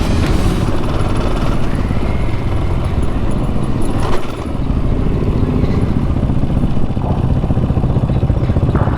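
Motorcycle engine running steadily while riding, with a short dip in loudness about four seconds in.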